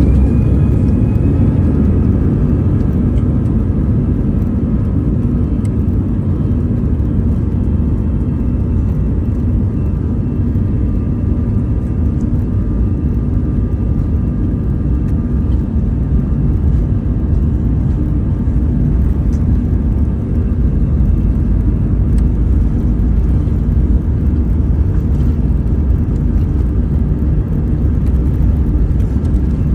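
Airliner jet engines heard from inside the cabin at high thrust: a loud, steady rumble with faint whining tones above it, after a rising whine that levels off about a second in. This is typical of engines spooling up to takeoff power and holding it on the takeoff roll.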